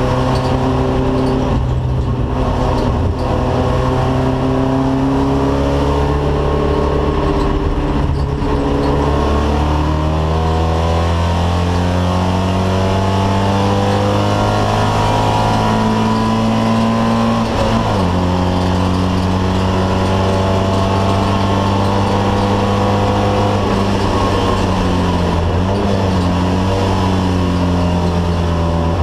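Alfa Romeo car engine pulling hard, its pitch climbing steadily and then dropping suddenly a few times as it changes gear, over a steady hiss of tyres on a wet road.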